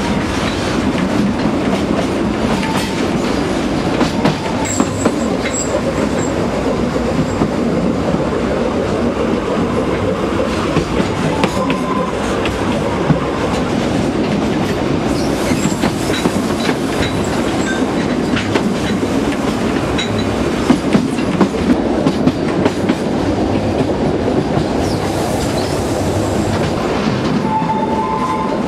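Narrow-gauge (760 mm) train running along the track, wheels clicking over the rail joints in a steady rolling clatter, with a few short, high wheel squeals.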